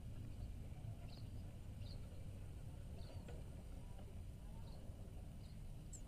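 Small birds chirping: scattered short, high chirps about once a second over a steady low rumble.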